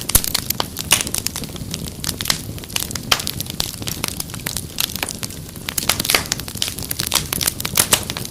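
Wood fire crackling: many sharp pops and snaps at irregular intervals over a steady low hiss of the burning fire.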